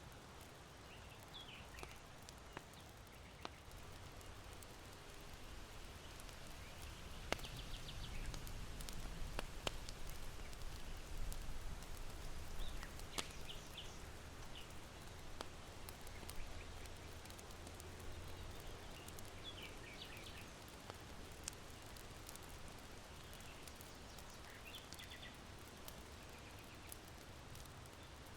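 Irori charcoal fire crackling with scattered sharp pops, while small birds chirp in short bursts five or six times. Wind in a bamboo grove swells and eases around the middle.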